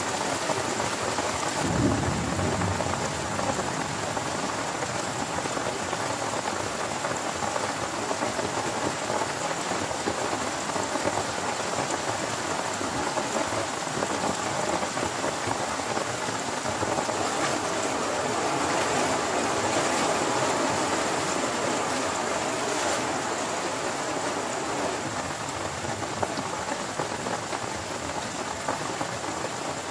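Heavy rain pattering steadily on a tent, with a low rumble of thunder about two seconds in. The downpour swells a little in the middle.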